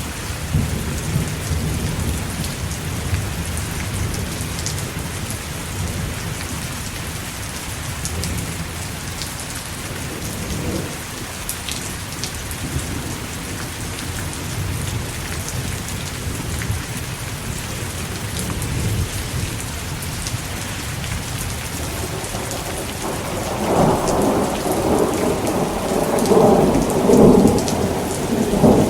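Steady heavy rain with low thunder rumbling. From about three-quarters of the way through, a louder roll of thunder builds and swells toward the end.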